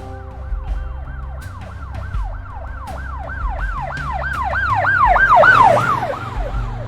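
Police car siren in a fast yelp: quick falling sweeps, about four a second, growing louder and then fading as the car passes, the pitch dropping as it goes by.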